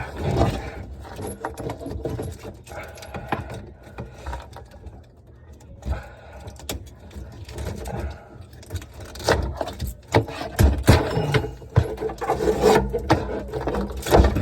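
Irregular knocks, clicks and scraping of hands and tools working on a dishwasher during its installation, growing busier and louder in the second half.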